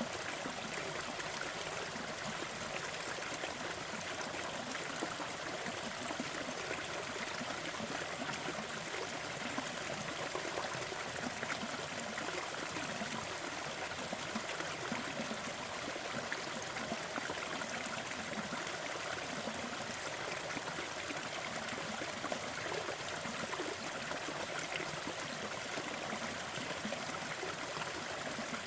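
Waterfall: water falling and rushing in a steady, even roar-like hiss with constant splashing and trickling, unchanging throughout.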